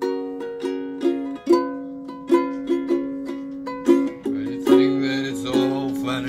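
A stringed instrument strummed in chords, about two strums a second, each ringing and fading. A voice joins about four and a half seconds in.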